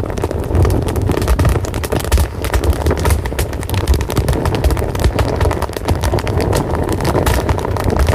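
Wood fire burning, with dense, irregular crackling and popping over a steady low rumble of the flames.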